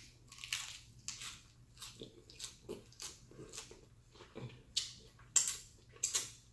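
Close-up chewing of a bite of lettuce wrap, heard as a run of short wet mouth clicks and smacks a few times a second, with louder smacks in the second half as fingers are licked.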